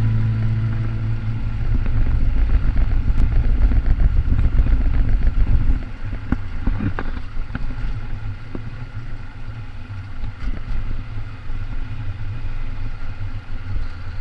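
Moving home-built electric vehicle: a steady low rumble of wind and road noise, louder for the first six seconds, then easing off.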